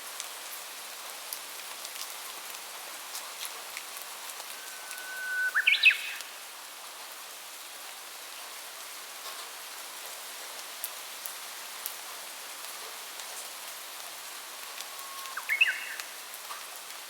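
Steady rain hiss with scattered drops. A songbird sings twice, about five seconds in and again near the end, each time a short held whistle followed by a quick higher phrase.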